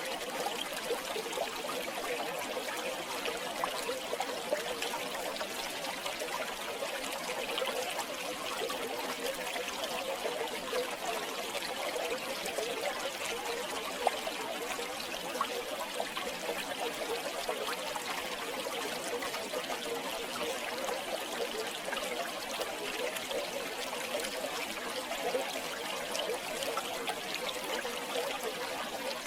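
River water flowing and trickling steadily over stones, with a fine bubbling splash. One brief click about halfway through.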